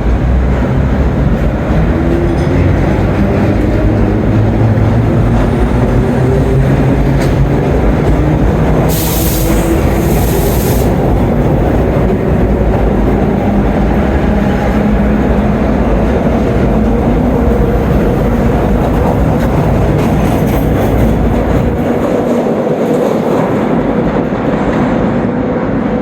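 A train running on rails: a steady rumble with a motor whine that slides up and down in pitch, and a short hiss about nine seconds in.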